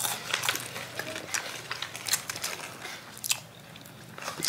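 Close-miked chewing of a crispy fried chicken wing: a quick run of crisp, crackly crunches that thins out in the last second.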